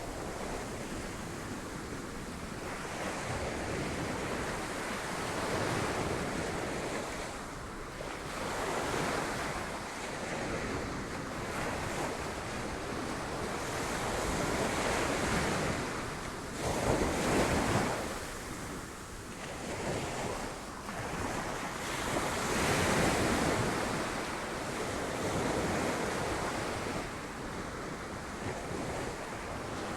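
Sea waves breaking on rocks, the surf rising and falling in surges every few seconds, loudest about halfway through, with wind on the microphone.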